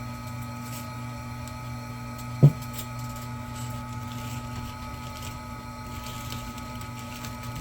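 Electric wire-stripping machine's motor running with a steady hum, with one sharp knock about two and a half seconds in.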